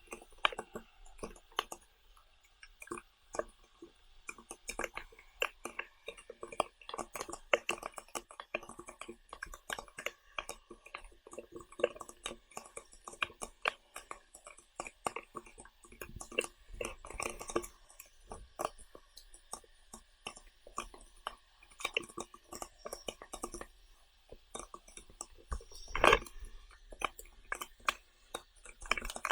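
A person eating close to the microphone: chewing and mouth smacks heard as many quick, irregular clicks, with one louder knock about 26 seconds in.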